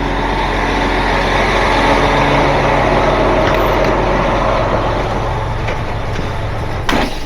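Heavy tow truck's diesel engine running steadily under light throttle as the truck reverses.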